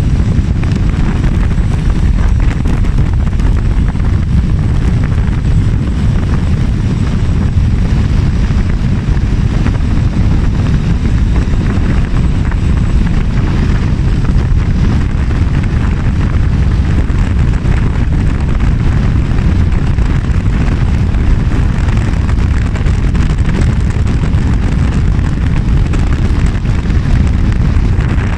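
Steady rush of wind over the microphone on a moving motorbike, with engine and road noise underneath, unbroken throughout.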